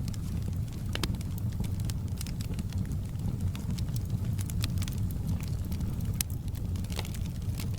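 Fire burning in a fireplace and crackling: irregular sharp pops over a steady low rumble of flames.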